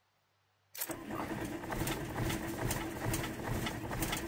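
Starter motor cranking a VW T4 Transporter's diesel engine after glow-plug preheating, starting about a second in, with an even, rhythmic chug of the engine turning over. The engine cranks without catching.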